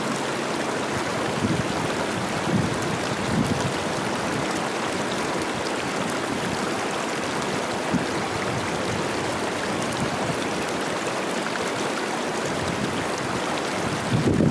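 Cache la Poudre River rushing and babbling steadily, running high with spring snowmelt. A few brief low swells come through in the first few seconds.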